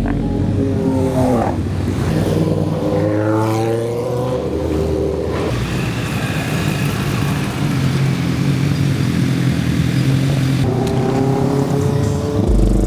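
Motorbike engines running and being revved: the pitch climbs in several revs, about a second in, again around three seconds in and near the end, over a steady engine note.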